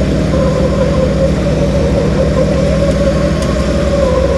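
Off-road 4x4 pickup's engine running at steady revs while its tires spin in place, a loud, even drone with a held tone; the tire spin warms up the tires.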